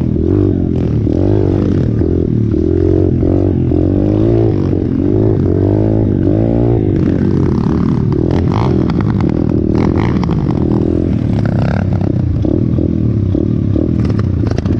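A 125cc pit bike's single-cylinder four-stroke engine, revved up and down over and over as it is ridden over rough ground. About halfway through, rattling and knocking from the bike join in.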